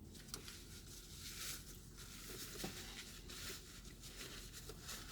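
Faint, irregular soft crackles and rustles of someone eating a crunchy taco: chewing and the wrapper being handled.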